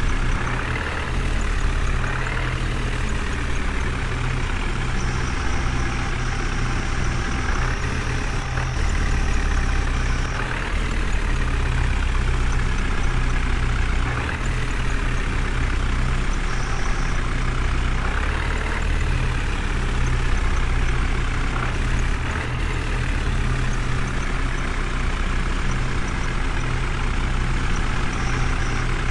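Heavy truck-like engine running steadily, its pitch rising slightly every few seconds.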